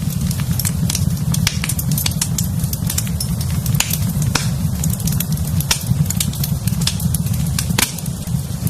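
Wood fire in a fireplace crackling, with many sharp, irregular pops over a steady low rush.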